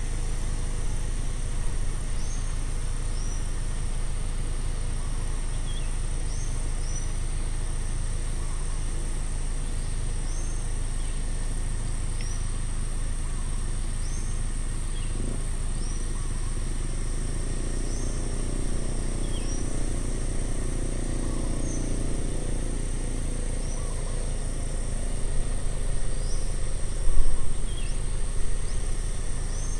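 Outdoor ambience: a bird repeats a short, high call every second or two over a steady, high insect drone and a low rumble. A low hum swells and fades in the middle.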